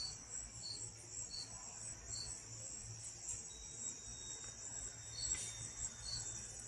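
Crickets chirping at night: a steady high trill with a second insect chirping about every 0.7 s. A faint low hum wavers underneath.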